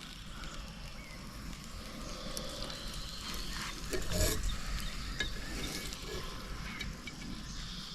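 Sausages, bacon and onions sizzling in a pie-iron brat cooker, with scattered small clicks and a louder noisy swell about four seconds in.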